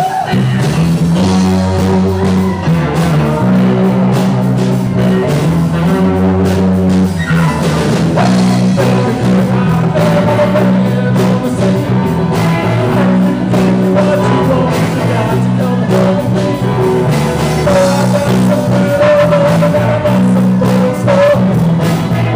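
Rock and roll music played by a band, over a repeating low riff, with a wavering melody line coming in about ten seconds in.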